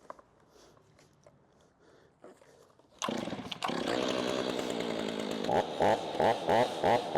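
Stihl 500i chainsaw's two-stroke engine starting about three seconds in and idling briefly, then revved in quick short blips about three times a second. It is a brief test run after reassembly to check that the chain's drive links seat in the guide bar and engage the sprocket.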